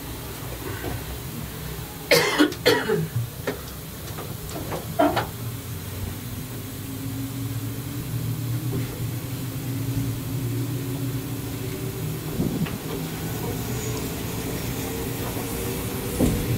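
Steady low rumble of a moving locomotive-hauled passenger coach heard from inside, with a quick cluster of short sharp sounds about two to five seconds in, and a faint hum that rises slowly in pitch after that.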